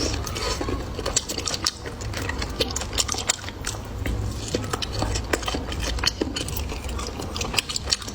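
Close-miked eating: chewing, with frequent short sharp clicks of utensils against dishes.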